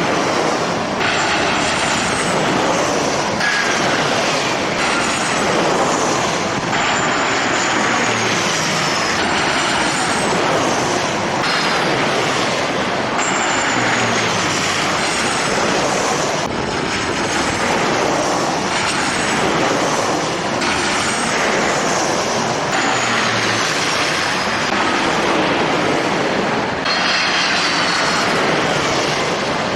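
Jet airliner engines running loud in a dense wash of noise, with high whining tones sliding down in pitch again and again. The sound changes abruptly every couple of seconds.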